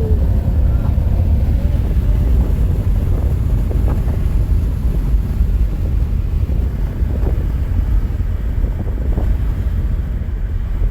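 Steady low rumble of a car driving at speed, with wind buffeting the microphone.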